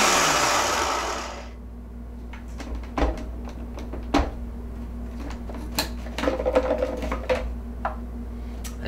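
Electric food processor running loud, then cutting off and winding down over about a second and a half. After that come scattered clicks and knocks, and a stretch of clatter from handling the plastic bowl and lid.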